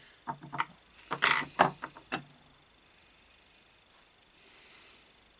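A quick run of sharp clicks and knocks over about two seconds, from hard parts being handled on the workbench, then a soft hiss about a second before the end.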